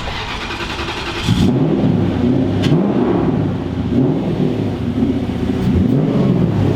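An engine revving up and down over and over, starting about a second in.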